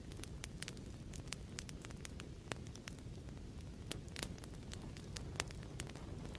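Fireplace ambience: wood fire burning with a steady low rumble and irregular sharp crackles and pops.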